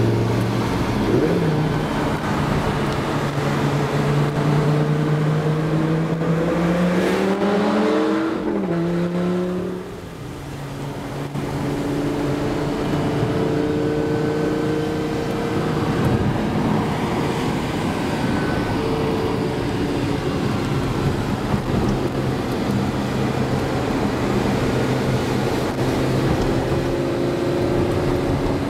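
Car engine heard from inside the cabin, its pitch climbing steadily under acceleration for about eight seconds, then falling away quickly and briefly quieter, before settling into a steady cruise over constant road noise.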